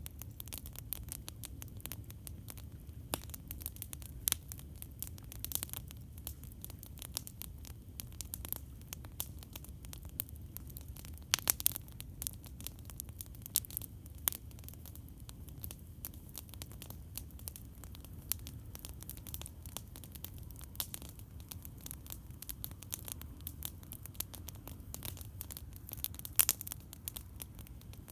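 Wood campfire crackling with frequent sharp pops and snaps, the loudest around a third of the way in and near the end, over a steady low rumble.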